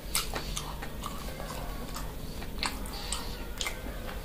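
A person eating: irregular wet mouth clicks and smacks while chewing food.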